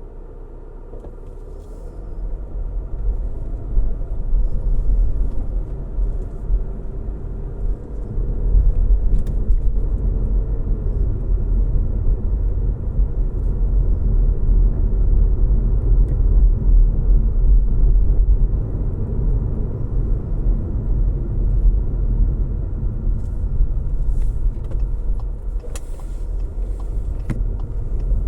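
Car driving, with a steady low road rumble and engine hum that grows louder over the first several seconds and then holds. A few faint ticks sound near the end.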